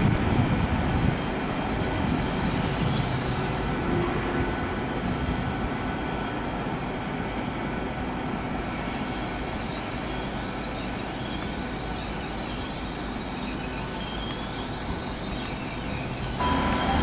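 Train running through a station, a steady rumble with high-pitched wheel squeal coming and going. The sound steps abruptly louder near the end.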